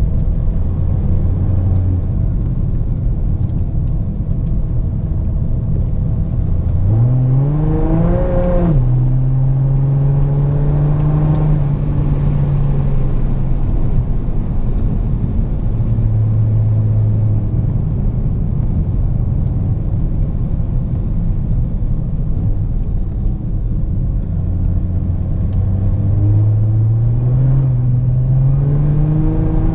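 Audi A7 3.0 TDI V6 diesel with a straight-pipe exhaust (no muffler) pulling through the revs: the engine note climbs steeply about seven seconds in, eases back, and climbs again near the end. Underneath runs a heavy, steady low rumble.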